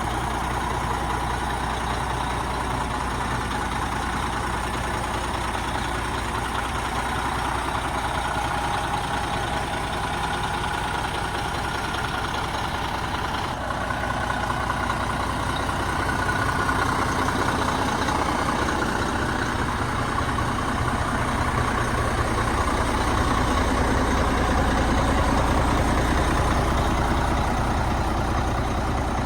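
ERF ECT XXL tractor unit's diesel engine idling steadily, growing a little louder in the second half.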